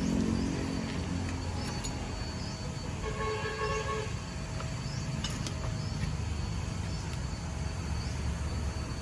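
Steady low vehicle rumble, with a short pitched, horn-like tone about three seconds in and a few light clicks.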